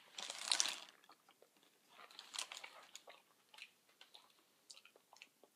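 A person biting and chewing a sub sandwich close to the microphone. There is a soft noisy burst near the start, then faint scattered mouth clicks and wet chewing sounds.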